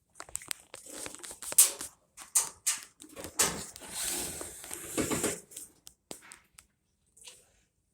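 Handling noises: a run of sharp clicks and knocks with scraping, crinkling rustles, the loudest click about one and a half seconds in and a longer rustle around four to five seconds in.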